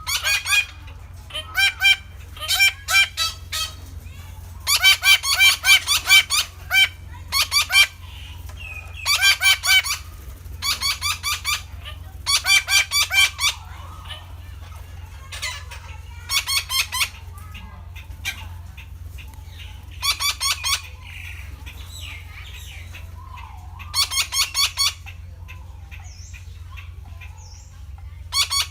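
Red-breasted parakeets calling in bouts of harsh, rapid squawks, each bout about a second long, with pauses of a few seconds between. A steady low hum lies underneath.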